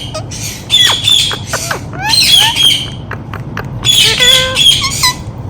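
Indian ringneck parrot squawking: three loud, harsh screeching calls about a second apart, mixed with quick sliding chirps.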